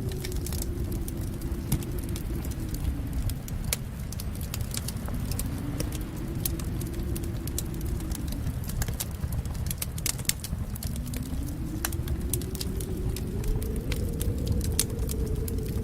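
Wood fire crackling, with frequent irregular pops and snaps over a low, steady rumble of flames that slowly swells and eases.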